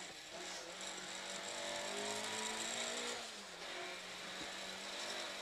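Ford Escort Mk2 rally car's Cosworth BDG four-cylinder engine heard from inside the cabin, accelerating with revs climbing; the revs fall briefly about three seconds in, then climb again.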